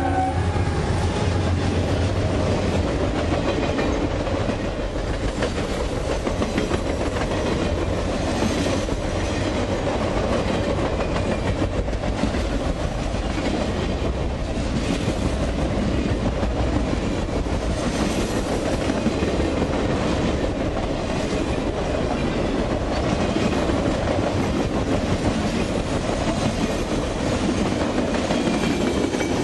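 Freight train passing close at speed: the last of a horn blast cuts off just as it begins, and a diesel locomotive's low engine rumble fades over the first few seconds. Then Triple Crown RoadRailer trailers roll steadily by on their rail bogies, with wheel rumble and clickety-clack over the rail joints.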